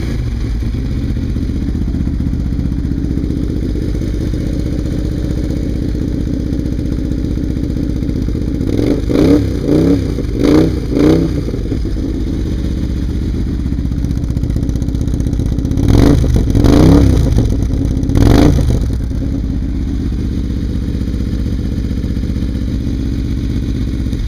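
Kawasaki KFX V-Force ATV's V-twin engine, not yet warmed up, idling steadily with quick throttle blips: four short revs about nine to eleven seconds in and three more about sixteen to eighteen seconds in.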